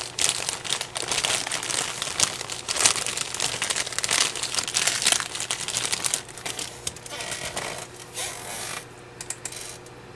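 Crinkling of a popcorn snack bag being handled. It is dense and irregular for the first six seconds or so, then sparser and quieter toward the end.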